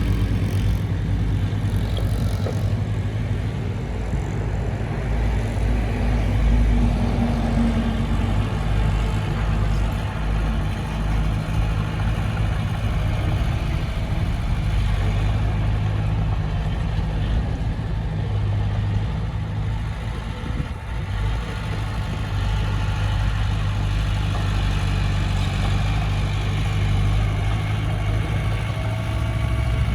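Heavy diesel engine of earthmoving machinery running steadily with a deep, even drone.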